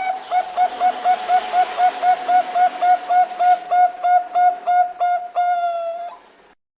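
Zebra dove (perkutut bangkok) calling: a rapid string of short, even notes, about four a second, ending in one longer held note that cuts off abruptly.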